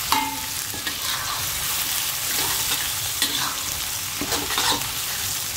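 Chili, shallot and garlic spice paste sizzling in hot oil in a wok while a metal spatula stirs and scrapes through it, with scattered clinks of the spatula against the pan. The paste is being sautéed until it smells cooked.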